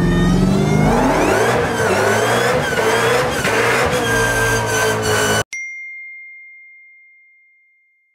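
Dodge Challenger SRT Demon's supercharged V8 revving high during a burnout, rising in pitch over the first second or so and then held at high revs. About five seconds in the engine sound cuts off suddenly, and a single ding chime rings and fades away.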